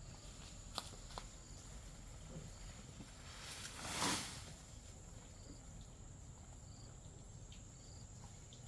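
Insects chirring steadily in a single high thin tone over quiet outdoor ambience, with a couple of light clicks near the start and one brief swish about four seconds in.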